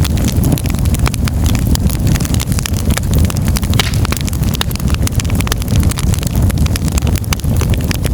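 Wood fire burning in a fireplace: frequent, irregular crackles and pops of the burning wood over a steady low rumble.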